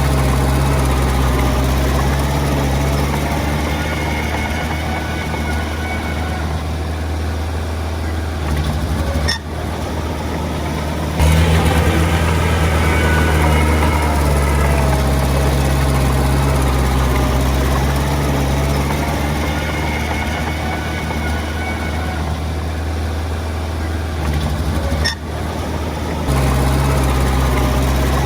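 Heavy diesel earthmoving engine running steadily with a deep hum. It dips briefly about nine seconds in, then comes back louder about two seconds later. It dips again near the end and steps back up, as the engine's throttle and load change.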